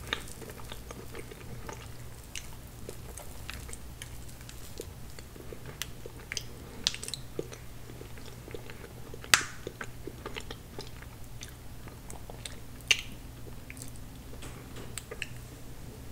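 Close-miked eating sounds of a person chewing soft tiramisu cake: scattered wet mouth clicks and smacks, with two sharper clicks about nine and thirteen seconds in. A faint steady low hum runs underneath.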